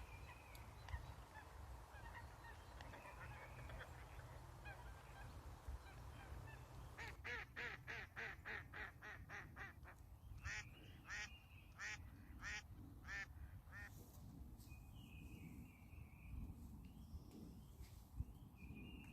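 Faint goose honking: a quick run of about a dozen calls, roughly four a second, then four slower honks, with thin high bird chirps near the end.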